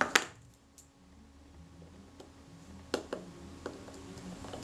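Small clicks and taps of a screwdriver and a tiny screw being fitted into a camera shutter's housing: a sharp click at the start, then a few lighter ticks about three seconds in.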